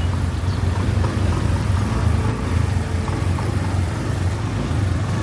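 Steady low wind rumble buffeting the microphone, mixed with engine and road noise, while riding on a small Honda Scoopy motor scooter.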